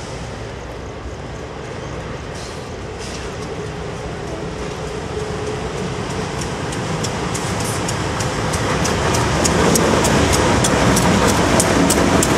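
CSX freight train approaching and passing close, its diesel locomotives' rumble growing steadily louder. From about halfway in, a regular run of sharp wheel clicks over the rail joints comes through.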